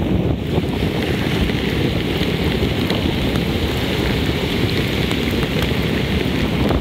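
Steady heavy rain with wind buffeting the microphone, a constant noise with faint scattered ticks.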